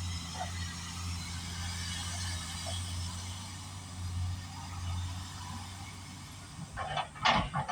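Kobelco 380 hydraulic excavator's diesel engine running with a steady low hum. Near the end, a short burst of loud clatter.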